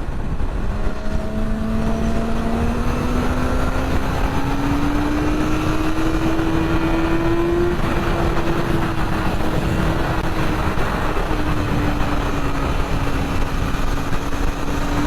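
Yamaha R6 sport bike's inline-four engine pulling steadily under way. Its pitch climbs gradually for about eight seconds, then holds nearly level. Wind rushes over the microphone throughout.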